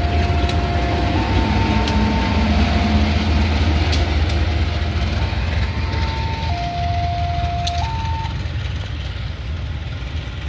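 Level crossing warning alarm sounding two alternating tones, high then low, over the low rumble of a passing diesel locomotive, with a few sharp clicks. The alarm stops about eight seconds in, and the rumble slowly fades as the locomotive moves away.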